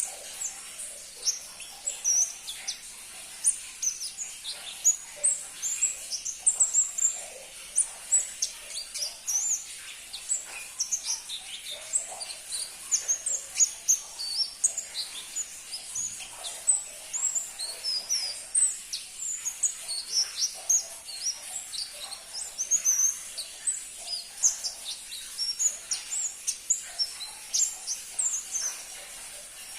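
A caged pentis pelangi, a small flowerpecker, singing a rapid, continuous string of short, high-pitched chirps and twitters.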